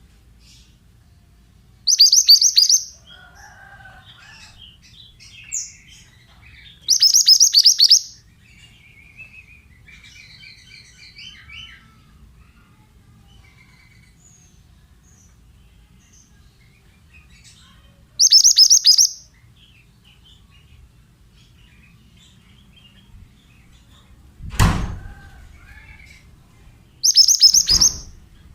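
Mantenan songbird song: four loud bursts of rapid, high chirping, each about a second long, with softer twittering between them. A dull thump comes near the end.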